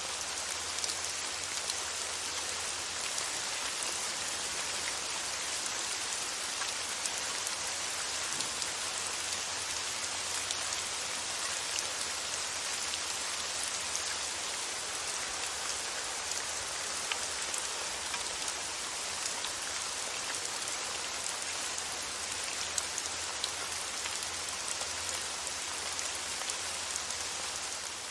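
Steady rain falling, an even hiss with scattered fine drop ticks and no change in intensity.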